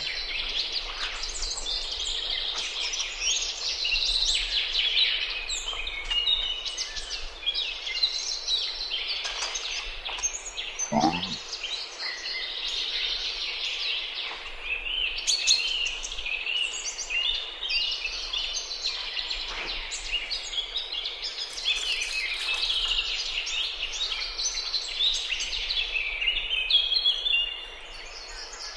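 Many birds chirping and singing at once, a dense chorus of short high notes that goes on without a break. About halfway through, one sound slides down in pitch.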